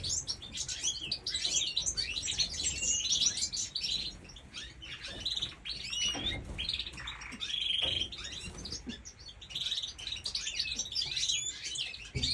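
A chorus of small birds chirping and twittering, many short calls overlapping without a break.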